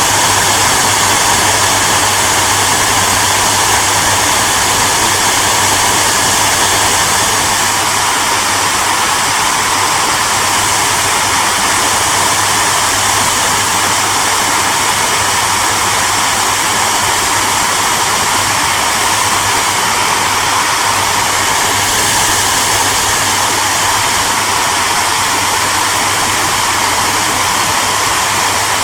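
Hairdryer running steadily: a continuous loud rushing of air over a low motor hum.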